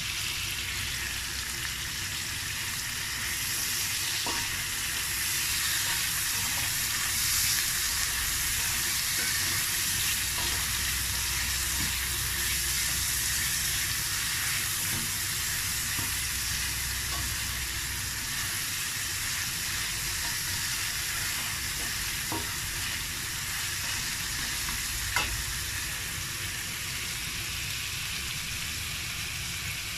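Pork, onion, garlic and tomato sizzling steadily in a stainless steel frying pan as they are sautéed and stirred with a spatula. A few short sharp clicks come now and then, the strongest about 25 seconds in.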